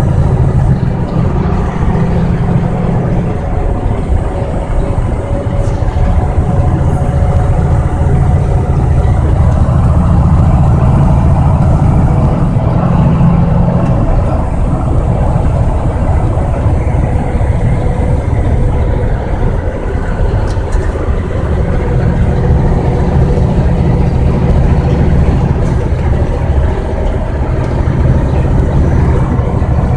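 Truck engine running steadily, a constant low drone that rises and falls only a little.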